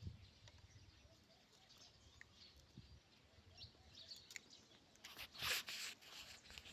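Quiet outdoor ambience with faint, scattered bird chirps, and a brief swell of noise like a rustle about five and a half seconds in.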